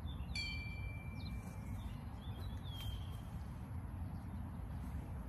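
Outdoor ambience with a steady low rumble and a few clear whistled bird calls in the first three seconds: notes that drop in pitch and level off, and one long steady whistle.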